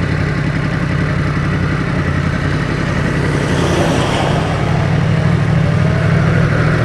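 Yamaha MT-10's crossplane inline-four engine running at a low, steady cruising speed, heard from the rider's seat with road and wind noise. The engine note wavers briefly about halfway through, then settles again.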